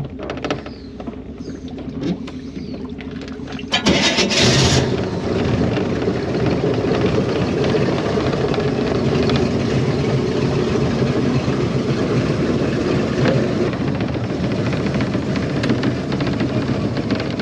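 Boat's outboard motor running, jumping suddenly louder about four seconds in and then running steadily and loudly.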